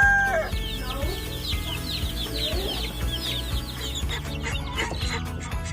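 The tail of a rooster's crow at the very start, then a flock of chickens clucking and chirping with many short, rapid calls.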